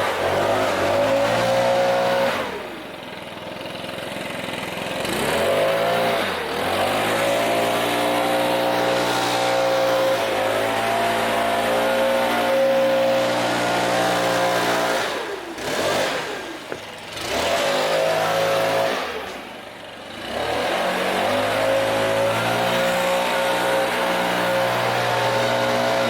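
An engine running steadily, its speed dropping and picking back up four times.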